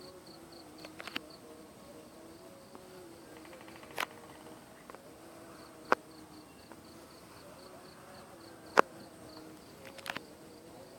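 High insect chirping, pulsing about four times a second in runs that stop and start, over a faint low wavering tone. Several sharp clicks cut through, the loudest about nine seconds in.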